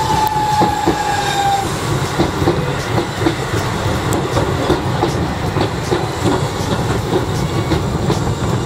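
Tobu 6050 series electric train running past at close range, its wheels clacking regularly over the rail joints under a steady rumble. A high whine falls slightly in pitch over the first second and a half.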